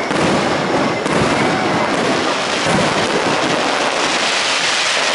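Fireworks display: aerial shells bursting overhead with a dense, continuous crackle and a few louder bangs scattered through it.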